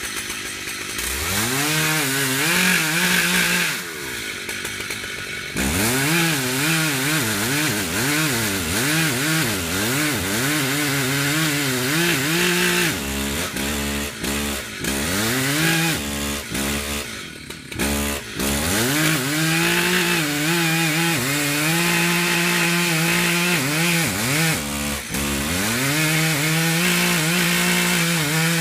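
Gasoline chainsaw engine revving up and down in quick repeated swings, then held at a steady high throttle for several seconds at a time, with brief drops in between.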